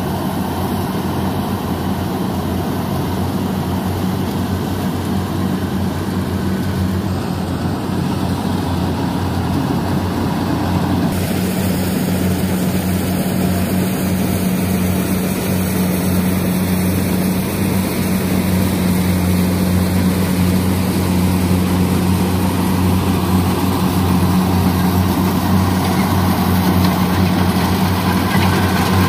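Kubota combine harvester's diesel engine running steadily, a low drone that grows gradually louder toward the end.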